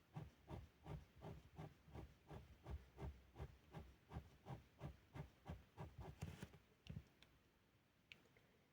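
Felt-tip pen stroking back and forth on paper, faint and rhythmic at about three strokes a second, stopping about six and a half seconds in, followed by a few light clicks.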